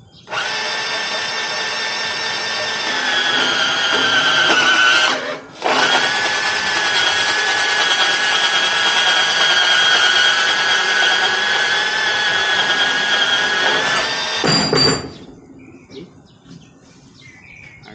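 Makita cordless portable band saw running and cutting through steel EMT conduit pipe, a steady motor whine whose pitch dips slightly as the blade bites into the metal. It stops briefly about five seconds in, starts again, and cuts off a few seconds before the end.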